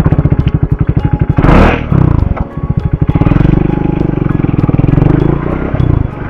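Triumph Scrambler 400 X's single-cylinder engine running under way, with a fast, even exhaust beat that rises and falls in revs. A short rush of noise comes about a second and a half in.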